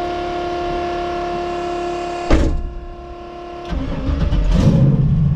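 Twin-turbo Camaro's electric fuel pump whining steadily as it primes. About two seconds in, a sudden loud clunk cuts it off. The engine then cranks, fires with a burst and settles into a steady low idle near the end: a cold start that catches right away.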